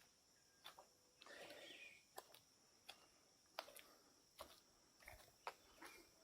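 Footsteps on the rainforest floor, one step about every 0.7 seconds, over a steady high-pitched insect chorus, all faint.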